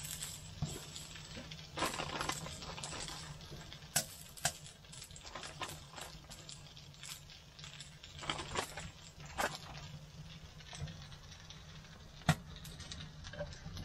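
Shredded hash browns frying on a griddle over a G-Stove wood stove: a steady soft sizzle with scattered sharp crackles and clicks.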